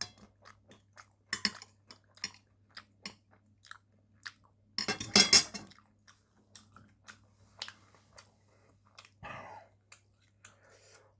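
A person chewing food close to the microphone: a run of short, wet mouth clicks, with a louder burst of chewing about five seconds in.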